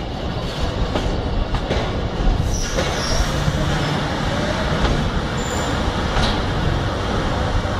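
Train running on the track: a steady rumble with scattered wheel clicks and brief high-pitched squeals, the first about three seconds in.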